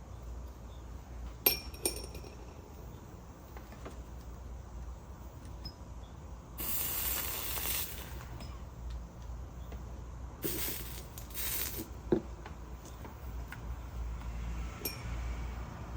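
Soldering on copper-foiled glass: a sharp metallic clink with a brief ringing tone about a second and a half in, then two short hissing bursts of flux sizzling under the hot iron, and another sharp clink after the second one. A steady low hum runs underneath.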